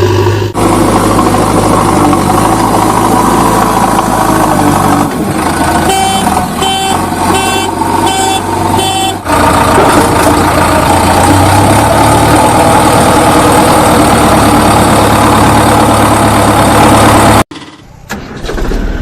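Heavy diesel engine running loud and steady under work. Partway through, a repeated beeping sounds about eight times at roughly two a second. The engine sound cuts off abruptly near the end.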